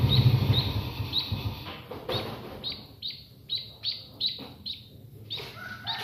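Fledgling munia giving short, high begging chirps, two or three a second, while it is hand-fed soaked rice. A low hum fades out in the first second or two.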